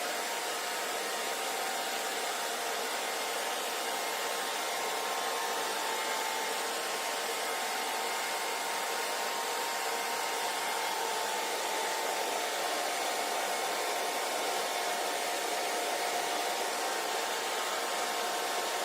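Hair dryer running steadily: an even rush of blown air with a faint motor whine held underneath.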